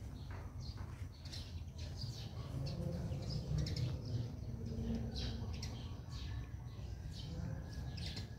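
Small birds chirping over and over in quick high notes, several a second, over a steady low rumble.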